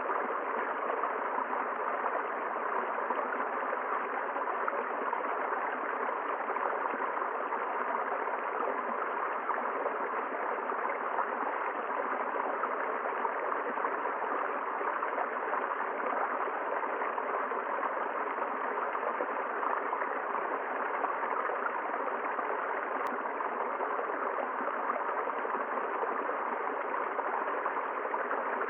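Forest river flowing, a steady, even rush of water.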